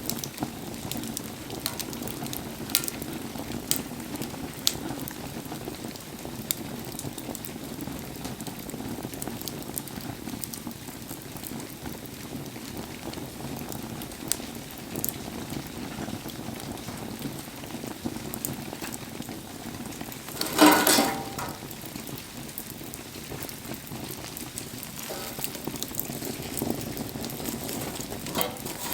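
Wood fire burning in the rain: a steady hiss and patter of rain with scattered sharp crackles, and one louder burst lasting about a second roughly two-thirds of the way in.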